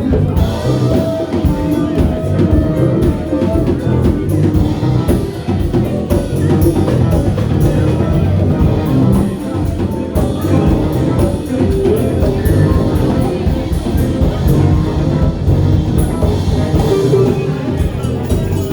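Live band playing an instrumental passage, with a drum kit and guitar.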